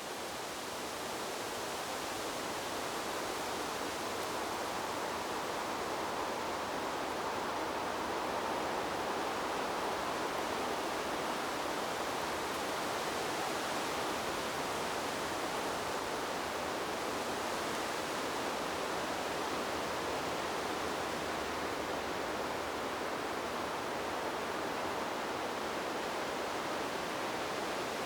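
Wind rushing steadily through trees, an even hiss with no gusts or clicks. It swells up over the first couple of seconds and then holds steady.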